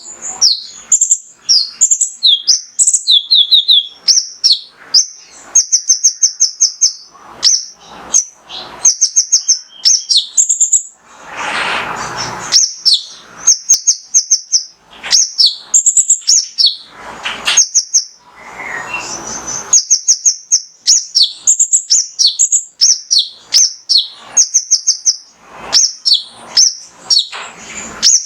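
Male kolibri ninja (sunbird) singing a full, fast song: runs of rapid, high-pitched chirps and trills with hardly a pause. Two longer, harsher, lower rasping bursts come about twelve and nineteen seconds in.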